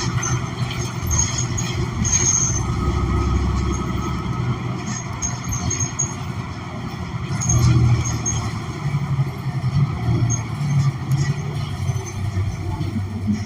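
Cabin of a 2016 New Flyer XN40 city bus with its Cummins Westport ISL G natural-gas engine running: a steady low rumble with road noise. A few brief high-pitched squeaks sound over it.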